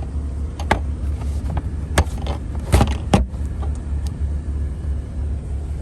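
Several sharp clicks and knocks from things being handled in a station wagon's cargo area, spread over a few seconds, over a steady low rumble.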